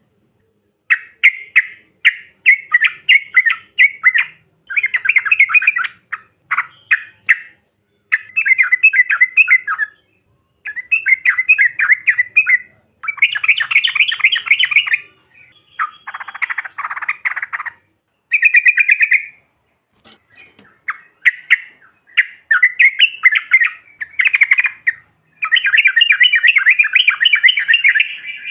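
Yellow-vented bulbul (trucukan) singing: loud, rapid chattering phrases of quick bubbly notes, each phrase lasting a second or few, repeated with short pauses between them.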